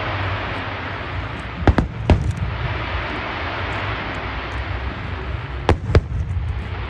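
Fireworks shells bursting in two pairs of sharp bangs, one pair about a second and a half in and another near the end, over a steady rushing noise.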